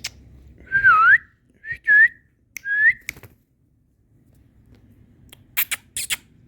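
Indian ringneck parrot whistling three short notes, each dipping and then rising in pitch. A few sharp clicks come near the end.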